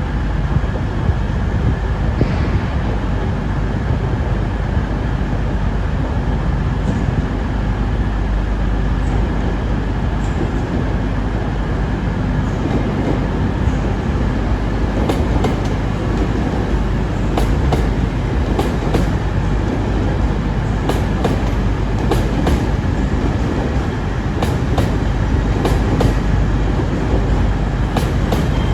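A train running on the station tracks: a steady low rumble, and from about halfway a series of sharp clicks, often in close pairs, as the wheels pass over rail joints.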